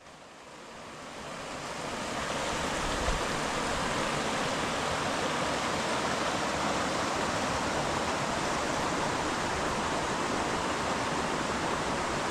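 River water rushing steadily, fading in over the first two seconds.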